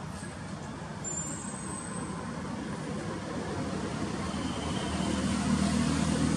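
A motor vehicle's engine running, growing louder over the last couple of seconds as it draws nearer.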